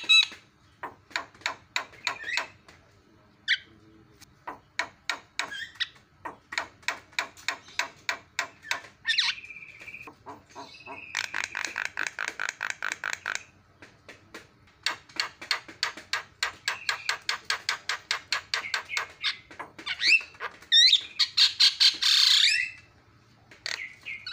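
Javan myna (jalak kebo) singing: runs of rapid clicking chatter notes, a buzzy rattle about halfway through, and louder, harsher squawks near the end.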